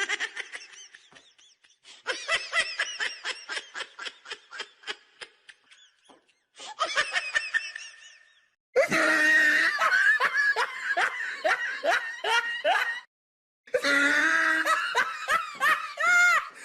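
A string of separate laughing sound-effect clips, one after another with short silences between: a quieter laugh fading away, a long run of rhythmic "ha-ha" laughing that slowly dies down, a short laugh, then two louder hearty laughs.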